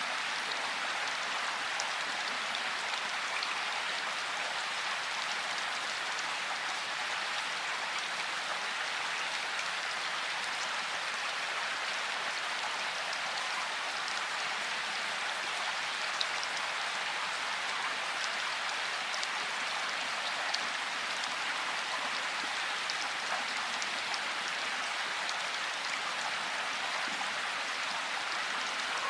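Steady rain falling, an even hiss of many drops with scattered individual drop ticks on top.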